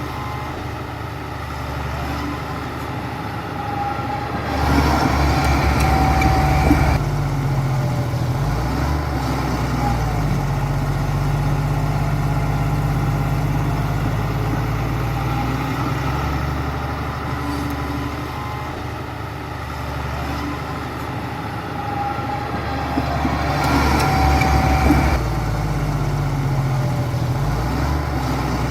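Heavy diesel engine of earthmoving machinery running steadily, with two louder spells of a few seconds each, about five seconds in and again near the end.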